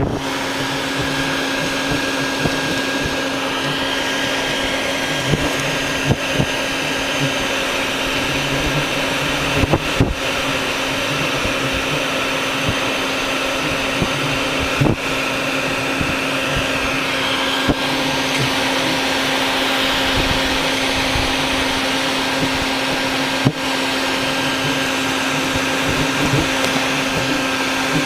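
Vacuum running steadily to suck bald-faced hornets off their nest, with a steady hum and a higher whine. A few short sharp clicks break through it now and then.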